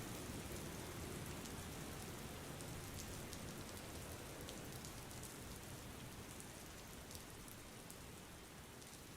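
Steady rain ambience, an even hiss with scattered fine drop ticks, slowly fading out.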